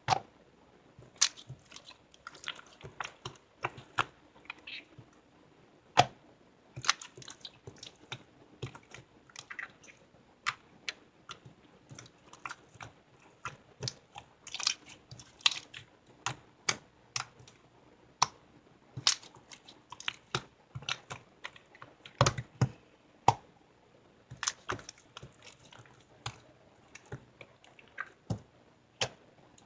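Irregular sharp clicks and taps, coming in quick clusters of several a second with short pauses between.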